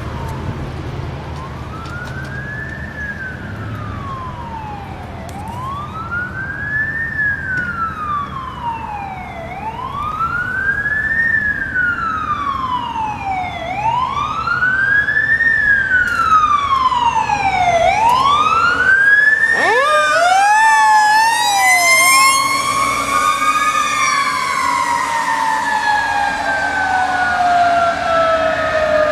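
Fire engine sirens: an electronic siren wails, rising and falling about every four seconds. About two-thirds of the way through, a Federal Q2B mechanical siren winds up from a low growl and then coasts down in one long falling tone. The Detroit Series 60 diesel rumbles underneath.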